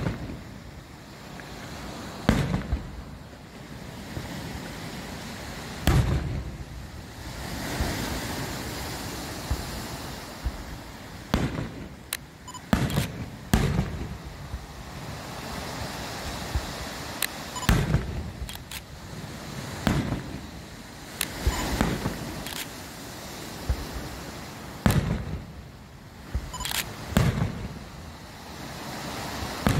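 Aerial firework shells bursting: more than a dozen sharp booms a few seconds apart, some in quick pairs, over a steady hiss.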